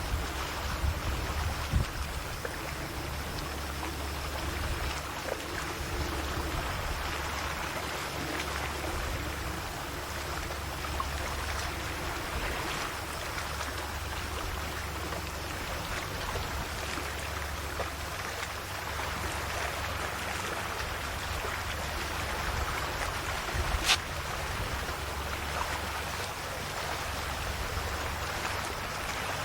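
Calm sea waves lapping and washing gently in a steady wash, with a low steady hum underneath. A single sharp click sounds once, late on.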